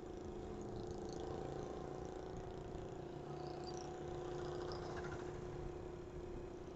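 Single-cylinder engine of a TVS Apache RTR 160 4V motorcycle running at a steady pitch.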